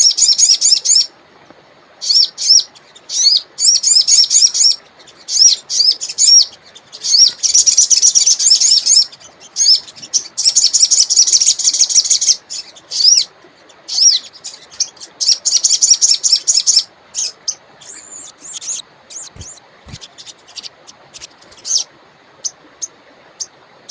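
Wild sogon songbird singing: loud, high, quick chirps and fast trilling phrases in bursts, thinning to short scattered chirps over the last third.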